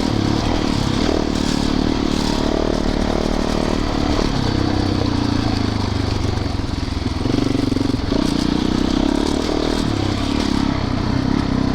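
Yamaha YZ450FX dirt bike's single-cylinder four-stroke engine running while riding a trail, its pitch rising and falling with the throttle.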